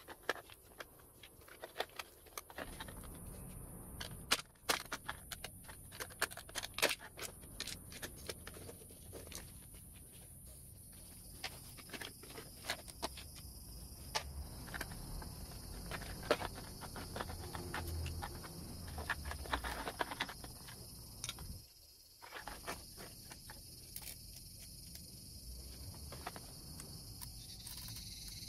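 Irregular clicks and light knocks of hand work on parts, over a steady faint hiss.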